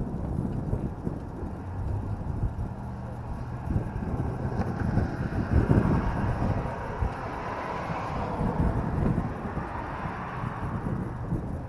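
Suzuki LS650 Savage's single-cylinder engine running on the move, a low pulsing rumble. A rushing noise swells and fades over its middle stretch.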